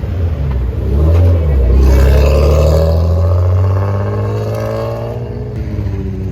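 A modified car's loud exhaust: two quick throttle blips, then a loud steady drone as it drives past, easing off near the end.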